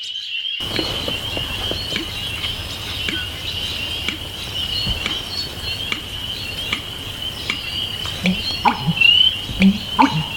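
A wetland frog chorus: a steady high-pitched pulsing trill, with scattered clicks. Near the end come a few short, deep, loud notes in quick succession.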